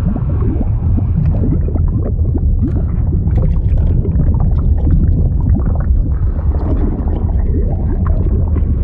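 Underwater bubbling and gurgling liquid sound effect: a deep, steady rumble with many small bubbling pops scattered over it throughout.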